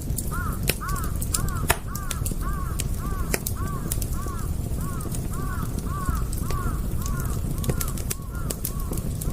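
Campfire crackling with scattered sharp pops, while a bird repeats a short call in a fast, even series of about two to three calls a second.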